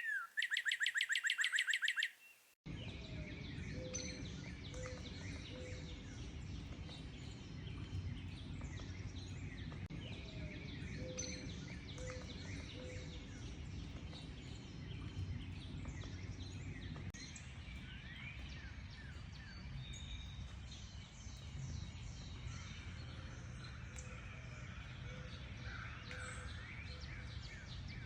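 A loud, rapid, evenly pulsed bird trill that cuts off about two and a half seconds in. Then many wild birds chirp and sing together over a steady low rumble, with a lower call repeated in short runs of three or four notes.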